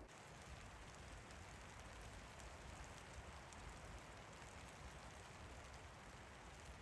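Steady rain falling, a faint, even hiss.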